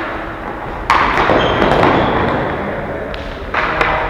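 Ball hockey play in an echoing hall: a loud thud about a second in, then scattered sharp taps toward the end.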